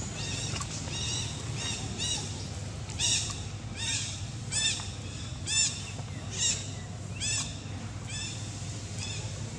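A bird calling over and over: about a dozen short, arched calls, roughly one a second, loudest in the middle, over a steady low rumble.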